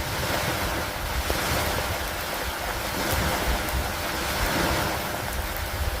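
Steady rain falling, a continuous hiss that swells and eases slowly, over a low, uneven rumble.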